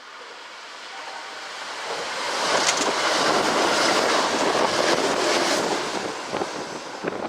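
Kintetsu electric train passing through the station: the rushing noise of the train builds, holds loud for a few seconds and fades, with a run of sharp wheel clicks over rail joints near the end.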